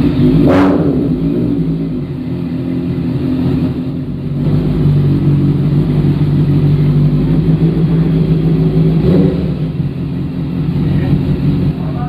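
Honda CBR motorcycle engine just after starting, with a loud burst of revs at the very start, then running steadily at idle, rising slightly a couple of times.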